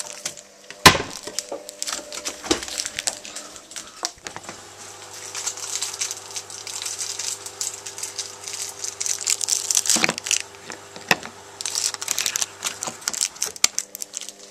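Handling a Finish all-in-one dishwasher tablet and its packaging while loading a dishwasher: crinkling of wrapper and irregular clicks and knocks of plastic parts, with a sharp knock about a second in and more near the end.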